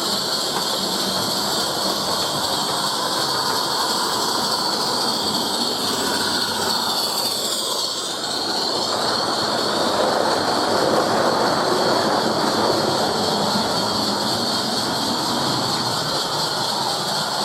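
A live-steam model locomotive running with its passenger train, a continuous noise of steam and wheels on rail. It gets louder a little past halfway, then eases slightly.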